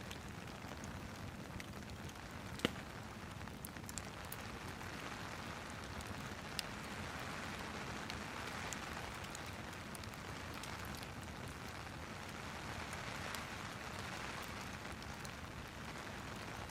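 Rain and fireplace ambience: a steady hiss of rain with scattered sharp crackles of burning wood, the loudest one about two and a half seconds in.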